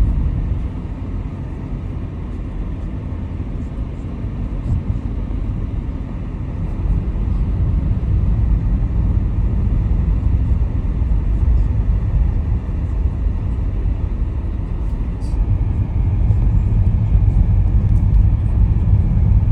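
Car driving along a road: a steady low rumble of tyre and engine noise that grows a little louder about a third of the way in.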